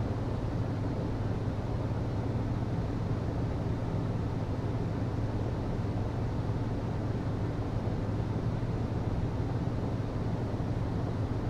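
HVAC system running steadily: a constant low hum with an even rush of air over it.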